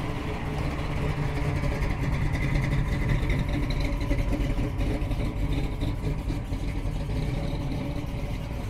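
Engines of a couple of Chevrolet Chevelles running as they drive off, a little louder a few seconds in.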